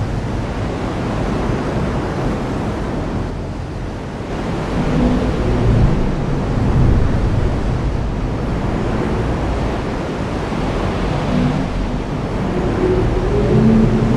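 Heavy rain falling steadily, with a low rumble underneath that swells and fades a few times.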